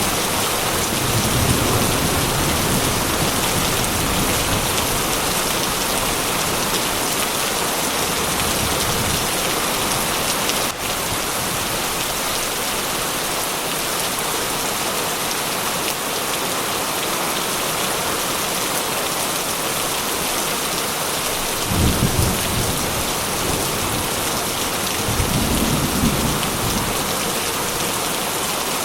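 Heavy rain falling steadily, with low rumbles of thunder about a second in and twice more after about twenty seconds.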